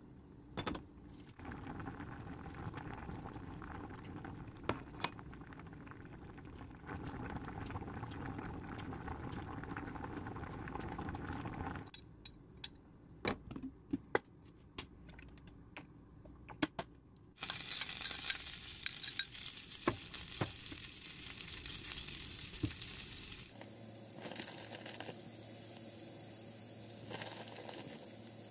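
Shredded potatoes frying in oil in a stainless steel pan, a steady sizzle that starts suddenly a little past halfway. Before it, a metal spoon clinks and scrapes against a bowl and the pan.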